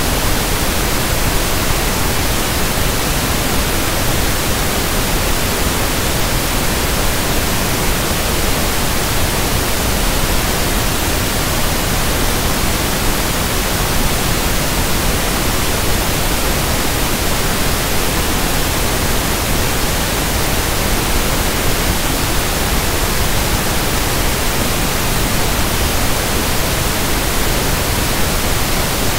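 Steady synthesized pink noise (1/f noise): an even, loud hiss spread across all pitches, with no change.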